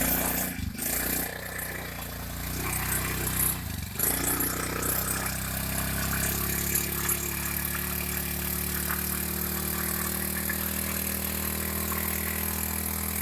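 Three-wheeled mini-bike trike's engine running while it tows a stuck quad bike out. It dips briefly twice in the first four seconds, then holds a steady speed.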